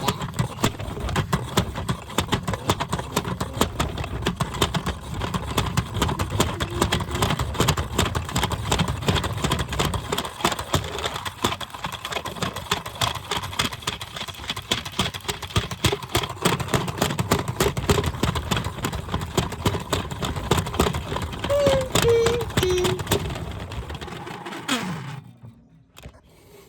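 Washing machine running with a dense, rapid rattling over a low motor hum. It shuts off about 25 seconds in, the motor winding down in a short falling whine.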